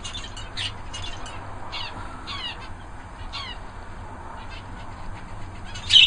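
Small aviary birds calling: a string of short high chirps and several quick downward-sliding calls, with the loudest call just before the end.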